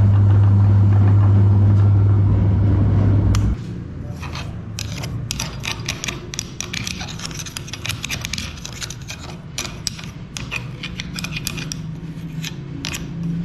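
Electric meat grinder motor running with a loud steady hum that cuts off suddenly about three and a half seconds in. After it stops, irregular scraping and crackling clicks of frozen ice cream being worked through the grinder.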